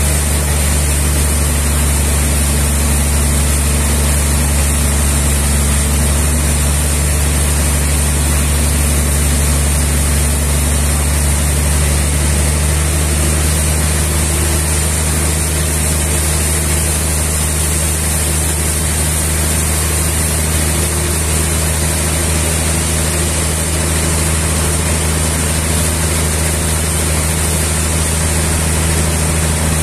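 Sawmill machinery running steadily: a constant low engine hum with a high hiss above it, unchanging throughout with no breaks or knocks.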